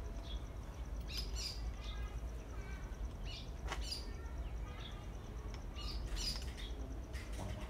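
Small birds chirping in short, scattered calls, over a steady low hum, with a few light clicks.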